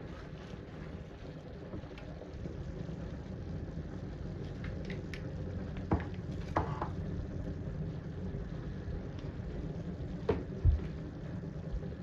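Steady rushing noise of stovetop cooking, with a few sharp knocks about six seconds in and again near ten seconds in.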